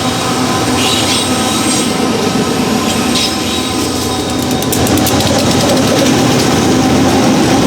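Freight train rolling past on steel rails, with steady wheel squeal and, from about halfway, rapid clicking of wheels over rail joints as the sound grows a little louder.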